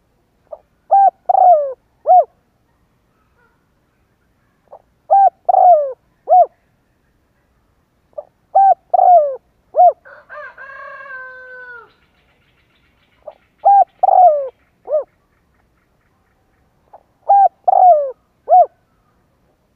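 Spotted dove cooing its song over and over: five phrases about four seconds apart, each a short soft note followed by three or four low coos. Between the third and fourth phrases comes a fainter, drawn-out call that falls in pitch.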